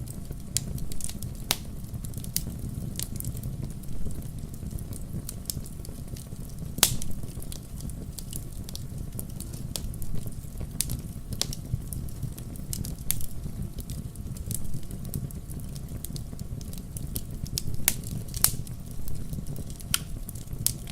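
Wood fire crackling in a fireplace: a steady low rumble of flames with irregular sharp pops and snaps, the loudest about 7 and 18 seconds in.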